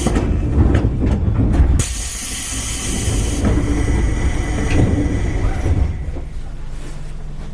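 Seibu 101 series electric train car at departure: loud bursts of air hissing over low rumbling and a few clunks. About six seconds in it settles to a steady low hum.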